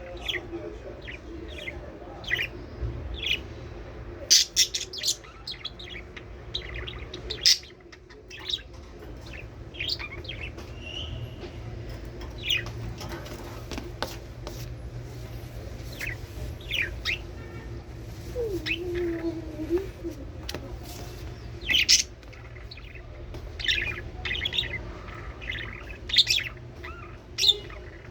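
Budgerigars chirping and chattering in many short, scattered high calls, over a steady low hum.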